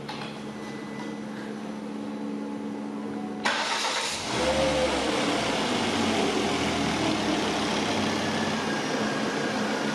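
Ford Kuga 2.5 L turbo five-cylinder petrol engine starting for the first time after a timing belt and water pump replacement. It catches suddenly about three and a half seconds in, its pitch rises and falls briefly, and then it runs on at a steady idle.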